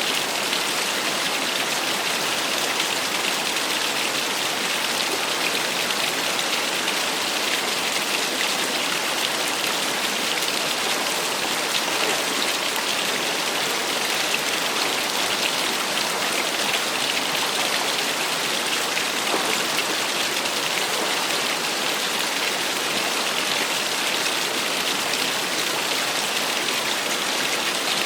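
Small waterfall splashing, a steady hiss of falling and running water with no pauses.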